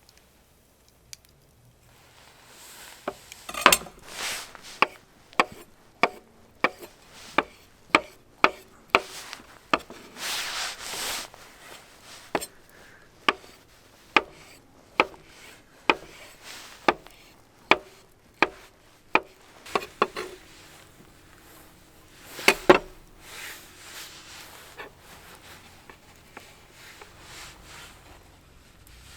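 Blade chopping on wood in a steady rhythm, about two sharp knocks a second, with a short scraping stretch partway through. The chopping stops about two-thirds of the way in, followed by a loud double knock and then softer rubbing.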